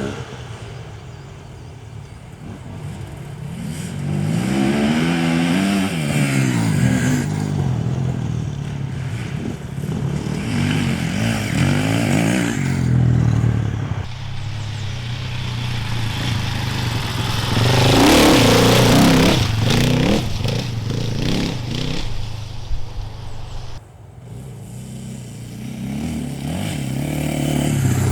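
Off-road enduro motorcycles riding past one after another, each engine rising and falling in pitch as the riders open the throttle and shift. The loudest moment is a broad rush of noise about eighteen seconds in, as a bike passes close.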